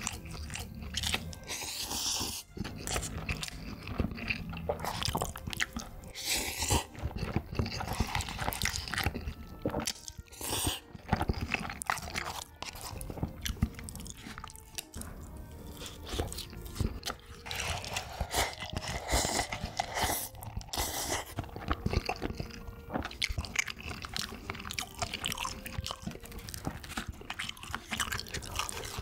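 A person eating: repeated crunching bites and chewing, with short crisp crunches coming every second or so.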